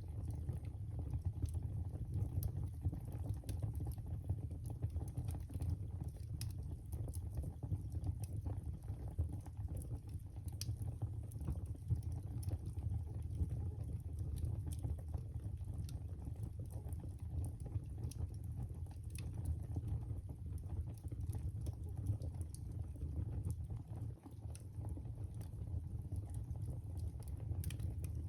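Wood fire crackling in a fireplace: a steady low rumble of the flames with frequent small, irregular pops and snaps.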